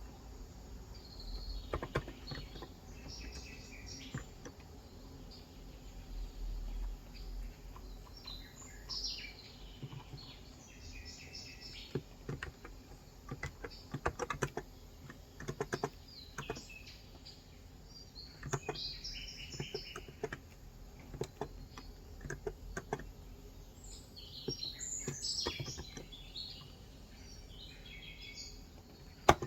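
Typing on a COX Endeavor electro-capacitive (non-contact) tenkeyless keyboard with light 35 g switches, keystrokes coming in uneven bursts. Birds chirp in several bouts through it.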